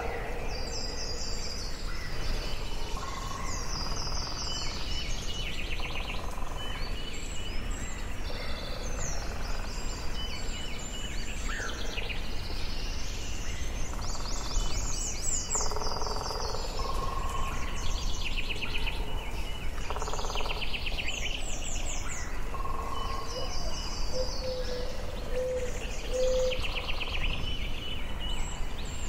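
Forest ambience: several songbirds singing and calling over a steady low rumble of background noise, with repeated rapid high trills and shorter lower whistled phrases.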